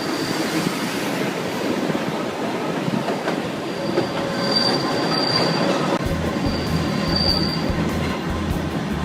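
Kurobe Gorge Railway narrow-gauge trolley train running on the rails, a steady rumble of wheels and cars with short high-pitched wheel squeals three times in the second half.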